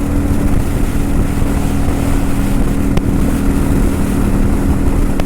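Kawasaki Vulcan 900 Custom's V-twin engine running at a steady speed under riding, a constant hum with a rushing haze of riding noise over it.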